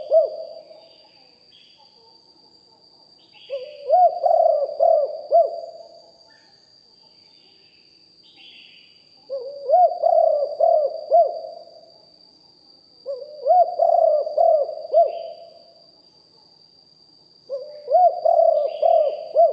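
Spotted dove cooing: a phrase of several deep coo notes repeats about every four to five seconds, four full phrases plus the end of one at the start. A faint, steady high-pitched tone runs underneath, with a few soft chirps from other small birds.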